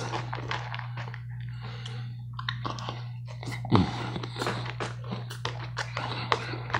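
Close-up mouth sounds of someone chewing and crunching salad, with frequent short crunches and clicks, some from a fork in a plastic tub. A steady low hum runs underneath. A brief low vocal 'mm' comes about four seconds in.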